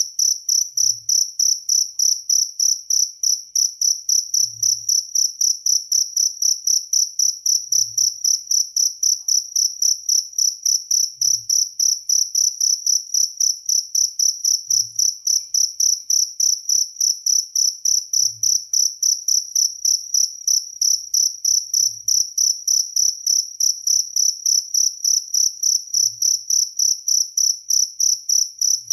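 Jaliteng cricket chirping steadily in a fast, even train of high-pitched pulses, about three a second.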